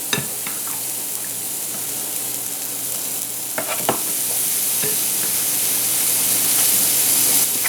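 Shredded, seasoned chicken frying in hot oil in a skillet: a steady sizzle that slowly grows louder, with a few short clicks a little past the middle.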